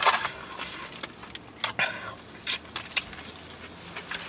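A person chewing food, with wet mouth noises and scattered short clicks.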